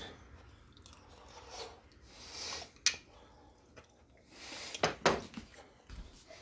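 A man tasting a spoonful of homemade chili: quiet chewing and wet mouth clicks, with two short breathy hisses about two seconds apart.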